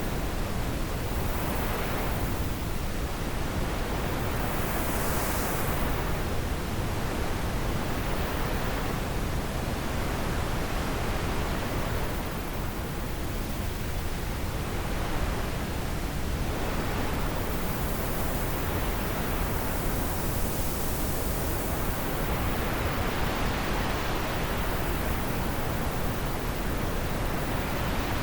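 Steady wind, a dense rushing noise that swells and eases in slow gusts every few seconds.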